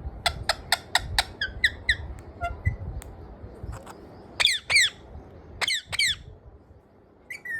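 A parrot squawking: a quick run of short calls falling in pitch, then two pairs of louder, longer squawks.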